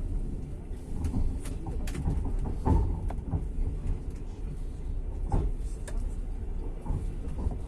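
Passenger train carriage heard from inside while running: a steady low rumble with scattered knocks and clicks. The loudest knock comes about a third of the way in.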